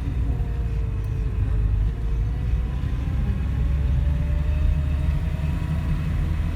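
Car engine running with steady low road rumble as the car drives up a rough mountain road; the engine note dips and then rises slowly.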